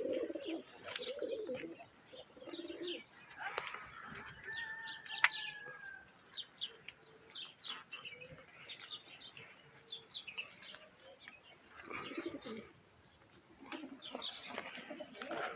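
Domestic pigeons cooing on a rooftop loft, with wing flaps and scattered high chirps of other birds. There is a single sharp click about five seconds in.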